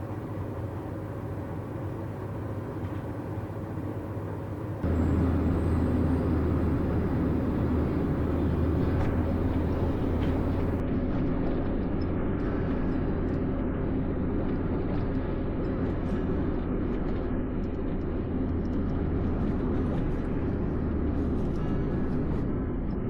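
Vehicle in motion: a steady low engine and road rumble, louder from about five seconds in.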